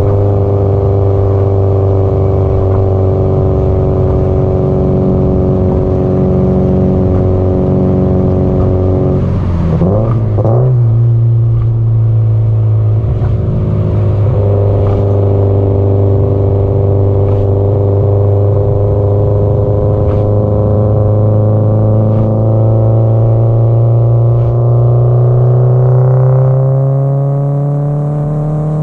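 Subaru Impreza WRX STI (GDB-E) turbocharged flat-four running through its aftermarket muffler under way: a steady cruising note at first, a gear change with a jump in pitch about ten seconds in, then a long, steady pull with the engine note slowly rising, broken off by another shift at the very end.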